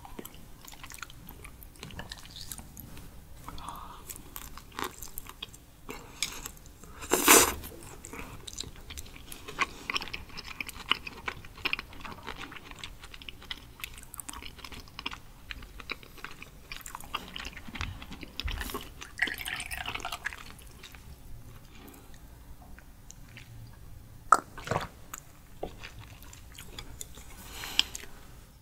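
A person chewing raw sweet shrimp with wet mouth clicks and smacks, without speech. One louder noise about seven seconds in and a sharp click near the end stand out from the chewing.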